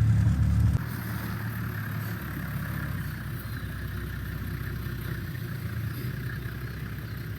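Car engine running, louder for about the first second and then settling to a steady idle.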